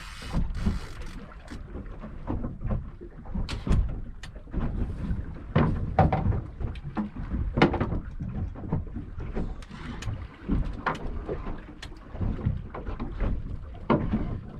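Irregular knocks and clunks on a small fishing boat, over a steady low rumble.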